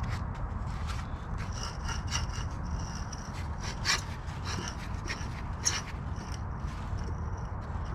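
A run of irregular scraping or rubbing strokes over a steady low rumble, with two sharper, louder strokes about four and five and a half seconds in.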